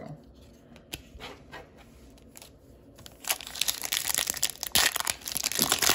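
Foil trading-card pack wrapper being torn open and crinkled, starting about three seconds in after a few faint clicks of card handling.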